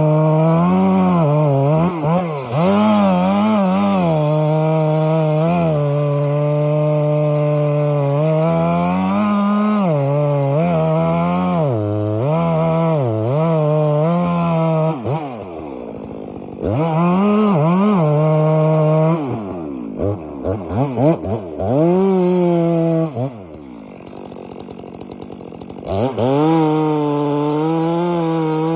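Chainsaw running at high throttle, cutting into a pine trunk to fell it, its pitch dipping again and again as the chain bogs in the wood. About halfway through it drops to idle with a falling pitch, then revs back up. It gives short throttle blips, idles again, and returns to full speed near the end.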